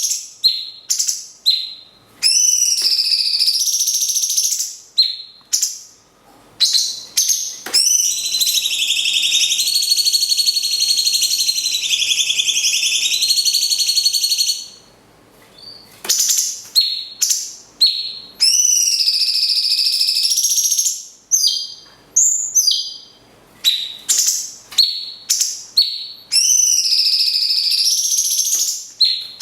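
Cage-bird song of a cucak cungkok and a lovebird calling in turn: loud, high-pitched short chirps and whistled phrases, with one long unbroken trill of about seven seconds near the middle.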